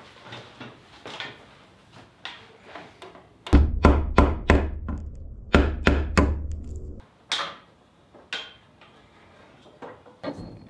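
Drill boring through wood with a paddle bit: a steady low motor hum under rapid chattering knocks for about three and a half seconds near the middle, with scattered knocks and clicks before and after it.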